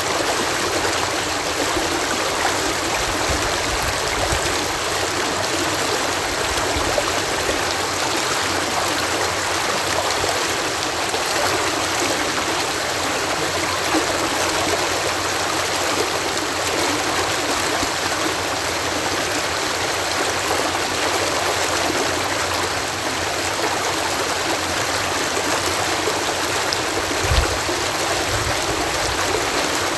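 Water pouring in a steady cascade through a canal lock, a constant rushing with a brief low thump about 27 seconds in.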